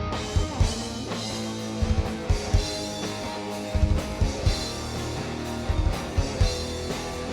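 Rock band playing live: electric guitar and bass over a drum kit with regular kick and snare hits, an instrumental passage without vocals.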